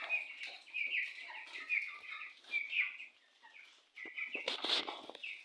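Caged quails chirping in short, repeated calls, with a brief burst of rustling noise about four and a half seconds in.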